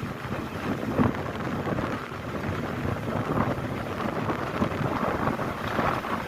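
Rumble of a moving railway train heard from on board, with wind buffeting the microphone.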